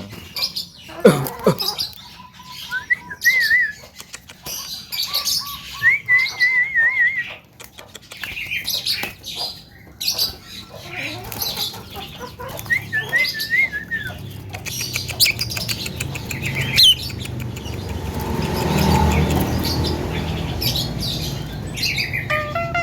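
Young Javan myna singing a varied, busy song of chirps, clicks and short warbled whistles, with a stretch of rustling about three quarters of the way through.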